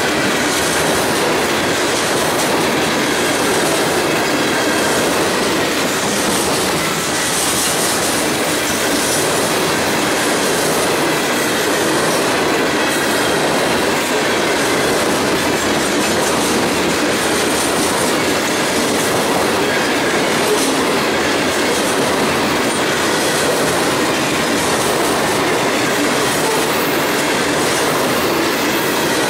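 Covered hopper cars of a freight train rolling steadily past, steel wheels running on the rails with the cars' trucks and bodies rattling; loud and even throughout.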